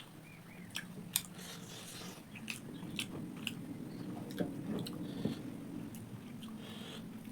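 Close-mic chewing and biting of pork, with frequent irregular crunchy clicks.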